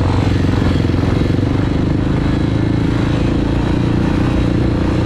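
Dirt bike engine running steadily at a constant pitch, without revving.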